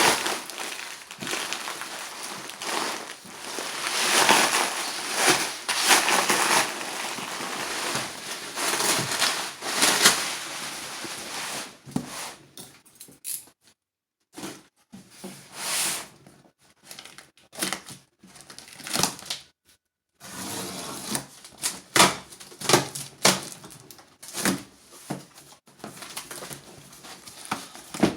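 Packaging being opened and unpacked by hand: continuous crinkling, crumpling and tearing for about the first twelve seconds, then scattered clicks and knocks of items being handled.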